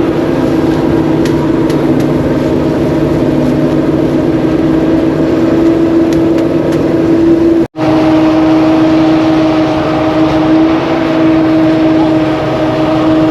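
A small engine running steadily at a constant speed, with a sudden brief break about eight seconds in.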